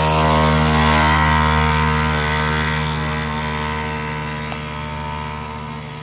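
Small dirt bike engine running at steady high revs, growing steadily fainter.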